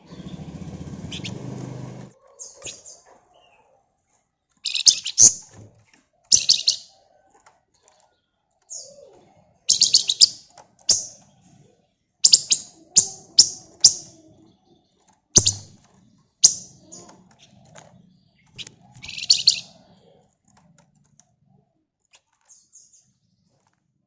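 Flamboyan (wergan Jawa) songbird singing in short, sharp, high-pitched bursts: quick chirps and rapid trills in clusters, separated by gaps of silence.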